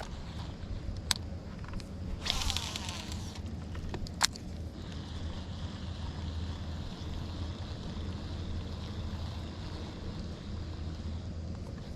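Wind buffeting the microphone, a steady low rumble. A sharp click about a second in, a brief rushing hiss from about two to three and a half seconds, and another sharp click about four seconds in.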